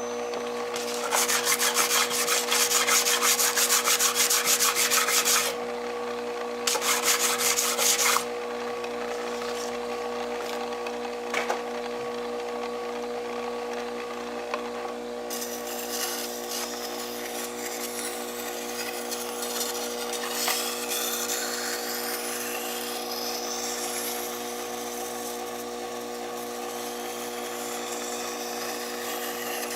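Vertical water-cooled knife sharpener running with a steady motor hum while something is ground against its wheel. There are two spells of loud rasping grinding in the first eight seconds, then softer continuous scraping from about halfway.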